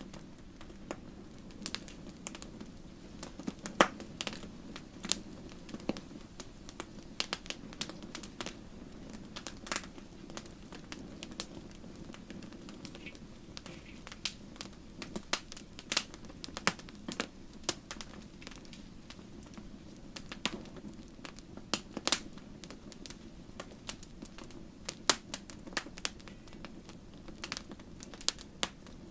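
Wood campfire crackling, with irregular sharp pops and snaps several times a second over a low steady rumble of the flames.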